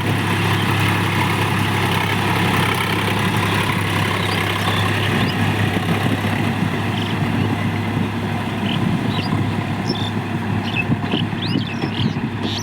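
Tractor engine running steadily at a low, even pitch, with short high chirps of birds over it in the second half.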